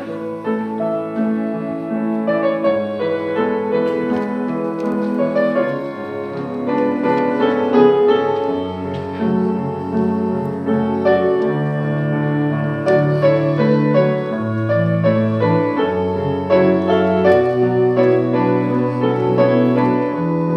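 Piano playing the introduction of a sacred choral anthem, with held chords over a slowly moving bass line.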